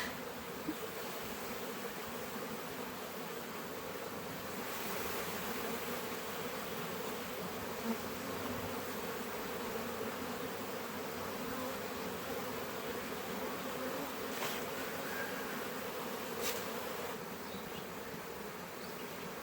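Swarm of honey bees buzzing steadily, a dense hum of many wings, a little louder through the middle stretch.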